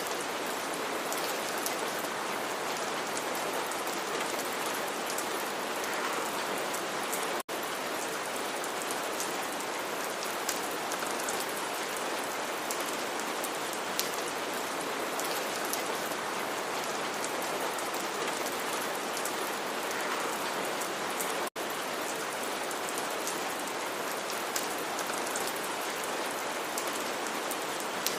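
Steady rain falling, with scattered drops pattering on a surface. The even sound breaks off for an instant twice, about a third of the way in and again about three quarters of the way in.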